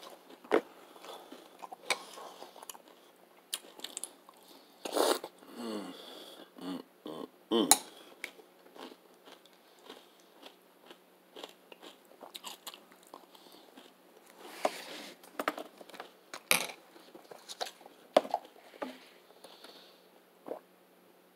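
Close-up chewing of crunchy Honey Bunches of Oats with almonds: irregular crackling crunches in the mouth, louder a few times about five to eight seconds in.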